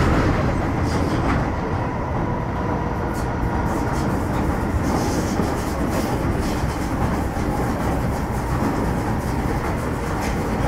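Interior running sound of an MTR Metro Cammell M-Train electric multiple unit with GEC GTO chopper traction, travelling between stations: a steady rumble of wheels on track with a few scattered clicks, and a faint steady whine in the first two seconds.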